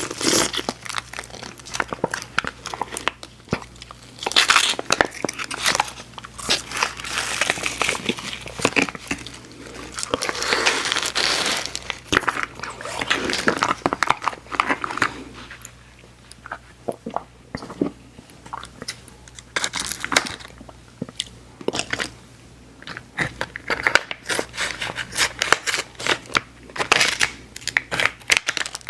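Candy wrapper crinkling and tearing close to the microphone, mixed with mouth sounds of biting and chewing chewy sour candy; the crinkling is densest in the first half, then gives way to sparser clicks and chews.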